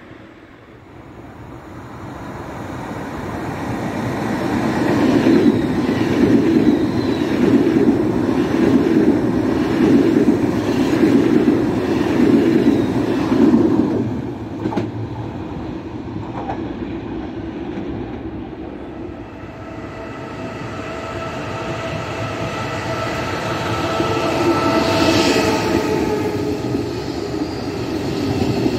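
Red Italo high-speed train rolling past on a near track, a loud steady rumble of wheels and cars that builds for about five seconds, holds, then drops off sharply about halfway through, with a few knocks on the rails. In the second half a regional train of passenger carriages moves alongside the platform with a steady whine, and a high wheel squeal rises near the end.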